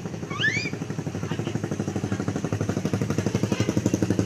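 Vespa scooter engine running at idle with a rapid, even pulsing beat, growing slowly louder. A couple of short, high rising chirps sound about half a second in.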